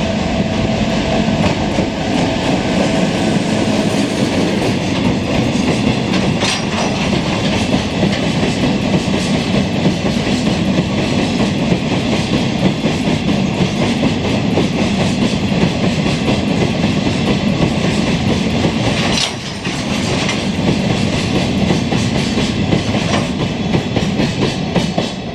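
Chichibu Railway freight train's wagons rolling through the station, a steady rumble with wheels clattering over the rail joints. A few sharp clicks stand out, and the level dips briefly about nineteen seconds in.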